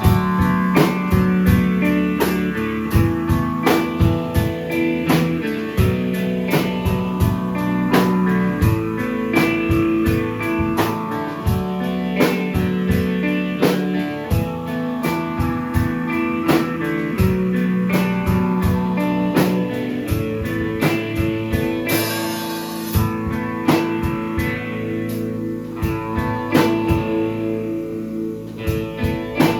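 Live band playing an instrumental passage without vocals: guitars over a steady beat, with a low phrase that repeats every few seconds.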